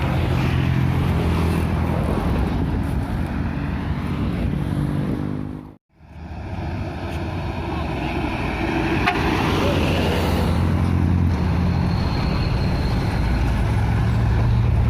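Heavy road vehicle's diesel engine running with a steady low note. About six seconds in the sound dips suddenly to silence and comes back, and the engine note grows stronger near the end.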